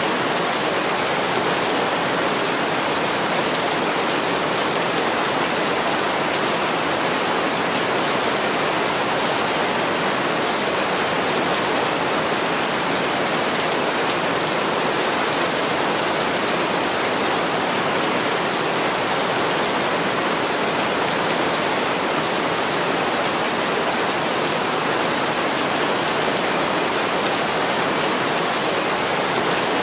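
Heavy rain falling steadily on window glass, an even, unbroken hiss with no let-up.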